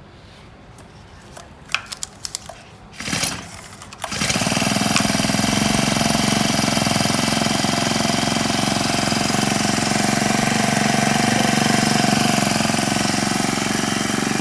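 Honda four-stroke engine on a wheeled power sprayer: a few clicks and a short rasp, then the engine catches about four seconds in and runs steadily at a loud, even speed.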